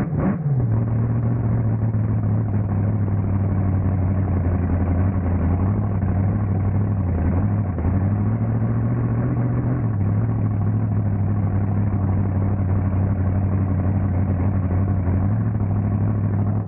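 Swamp Thing 4x4 monster truck's engine running steadily at low revs, a deep drone whose pitch dips slightly about eight seconds in and recovers. The sound cuts off suddenly at the end.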